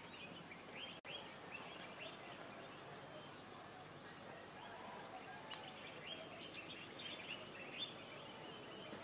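Faint outdoor ambience with small birds chirping in short, quick calls, and a high, steady trill that breaks off about a second in and comes back for a few seconds.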